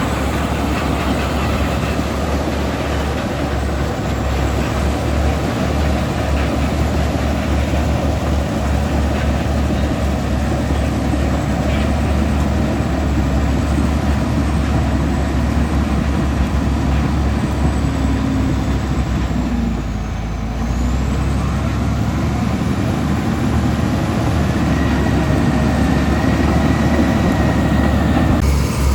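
Komatsu D65E crawler bulldozer working, its diesel engine running steadily and loudly, easing off briefly about two-thirds of the way through.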